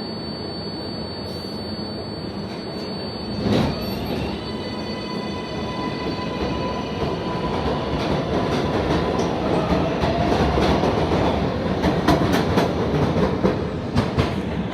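New York City subway train moving along the elevated track: steady rumble with a high electric motor whine of several tones, and a sharp bang about three and a half seconds in. Wheels click over the rail joints, louder and more often in the second half.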